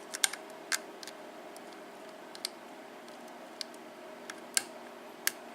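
Scattered small, sharp metallic clicks of a lock pick and tension wrench working the pins of a pin-tumbler lock, single-pin picking with pins setting one by one.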